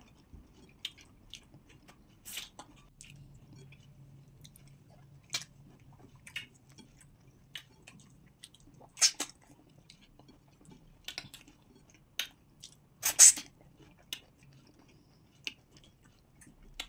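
Close chewing and eating of pounded yam with okra soup by hand: scattered sharp, wet mouth clicks and smacks, the loudest about 9 and 13 seconds in.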